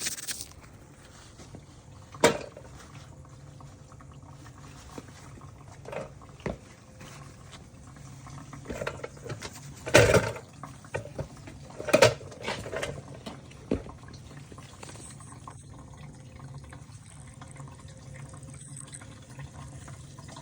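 Gasoline being poured from a can into a minibike's fuel tank, with several sharp knocks and clunks in between.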